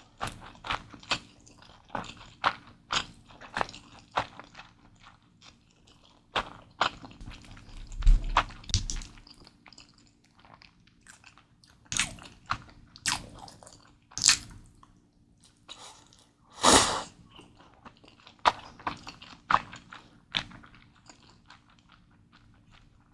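Close-miked chewing of Mi Goreng instant fried noodles: a run of short, wet mouth clicks at an irregular pace. There is a deep thud about eight seconds in and a longer, louder mouthful about seventeen seconds in.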